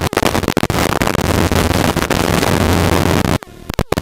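Helicopter engine and rotor noise heard inside the cabin in flight: a steady low hum under a loud rushing hiss, cut by several brief dropouts, the longest about three and a half seconds in.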